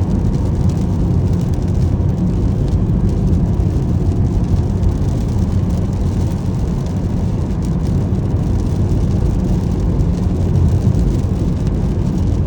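Steady, low road and tyre noise from a Tesla Model S Plaid driving on a wet road in the rain, heard from inside the cabin.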